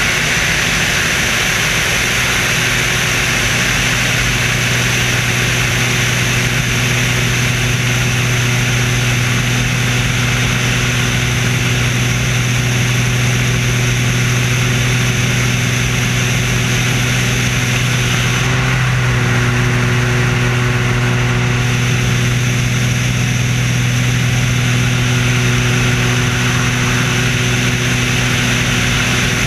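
Screamin' Sasquatch biplane's engine and propeller droning steadily in flight, with a strong rush of air noise; the pitch dips slightly for a moment about 19 seconds in.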